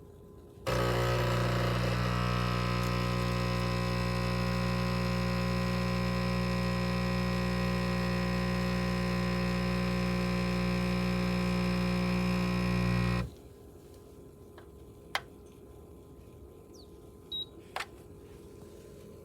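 Neretva 20-bar espresso machine's pump running with a steady buzzing hum for about twelve seconds, then cutting off suddenly. Two short clicks follow near the end.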